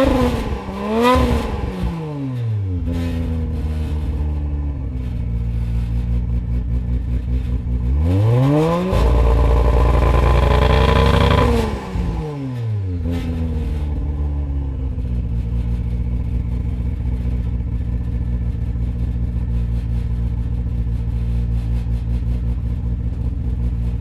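Turbocharged Nissan RB25-based straight-six (stroked to 2.65 litres, top-mount equal-length manifold, GTX3576R turbo) heard at the exhaust. It is blipped twice quickly and drops back to a steady idle. About nine seconds in it is revved up, held high for about three seconds, and falls back to idle.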